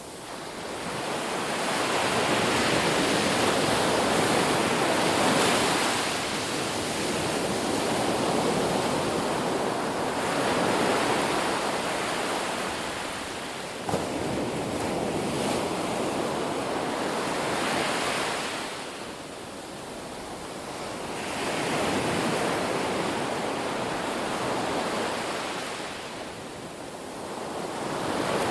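Ocean surf: waves breaking and washing in, the rush of water swelling and fading in long surges every several seconds. A single brief sharp click sounds about halfway through.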